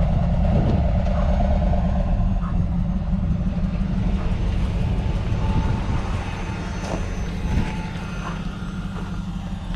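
Car engine and exhaust running under load during an acceleration pull, a steady low drone that eases off somewhat near the end.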